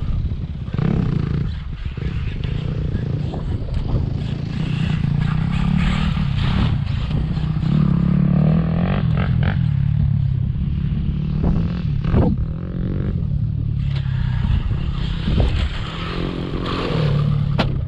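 Traxxas Maxx V2 RC monster truck running hard on its brushless electric motor over dirt, with a steady low rumble of motor and tyres. A few sharp knocks and clatters come as it lands jumps.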